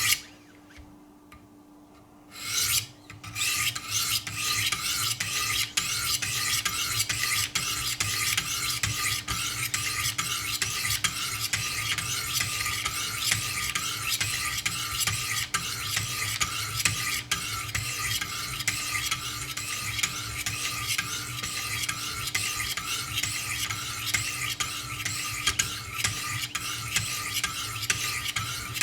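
Wicked Edge sharpening system's diamond stones stroking along a knife's edge, alternating from side to side in a quick, continuous run of scraping strokes that starts about three seconds in after a short quiet.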